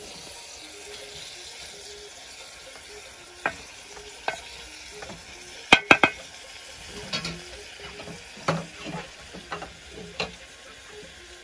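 Tomato, green pepper, onion and dried silver fish frying in oil in a metal saucepan with a soft, steady sizzle, cooking until the tomato softens. A metal utensil clicks and scrapes against the pan as the mix is stirred, with the loudest clinks a little past the middle.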